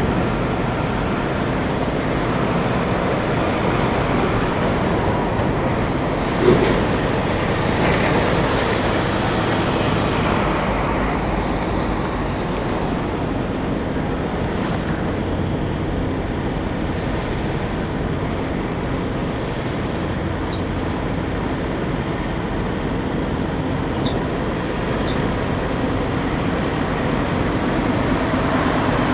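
Trucks and traffic driving past on a road: a steady rumble of diesel engines and tyre noise, with one short, sharp sound about six and a half seconds in.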